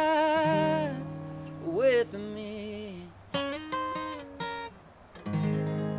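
The close of an acoustic song. A singing voice holds the final note for about a second, then an acoustic guitar plays a few single picked notes and a last strummed chord that rings out, about five seconds in.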